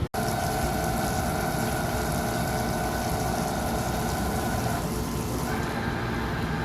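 Dörries Scharmann VL4600 CNC vertical turning lathe running: steady machine noise with two held tones that stop about five seconds in, after which a higher tone takes over. A brief dropout right at the start.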